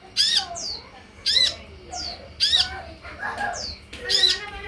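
Sunbird calls from a lure recording: sharp, high chirps repeated about once a second, each followed by a short falling note, with softer lower twitters between them.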